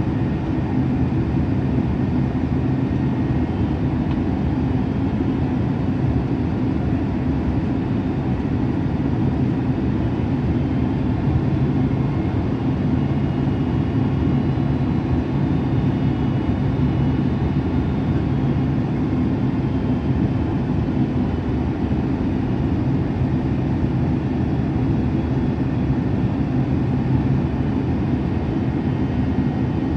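Jet airliner cabin noise heard from a passenger seat: the steady rush of the engines and airflow with a low, even hum.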